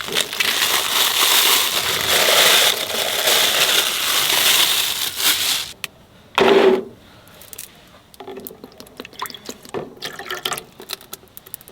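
Water poured steadily for about six seconds, as when filling a self-heating rice kit, followed by a short low thud and light handling clicks.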